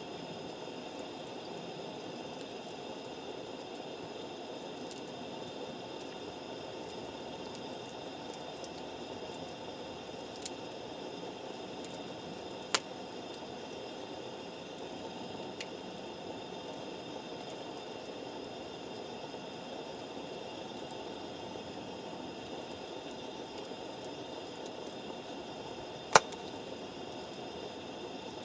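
Wood campfire burning with a steady low hiss, with three sharp pops from the burning wood, the loudest near the end.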